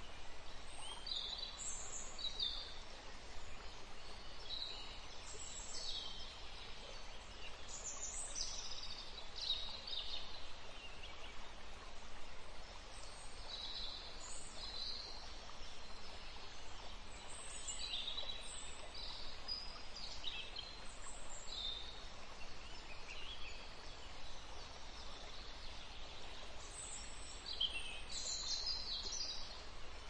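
Small birds chirping and calling, with many short, high notes scattered throughout over a steady background hiss.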